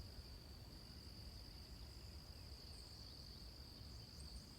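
Near silence with a faint, steady, high-pitched insect trill in the background.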